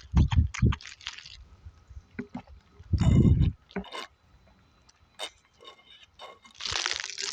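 A person drinking close to the microphone: short gulps and swallows of a drink, with a louder gulp about three seconds in and another near the end.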